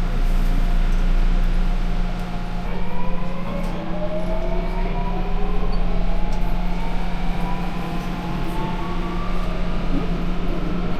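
Subway train pulling away from a station after its doors close: the electric traction motors give a whine of several rising tones from about three seconds in as the train accelerates, over a steady low hum.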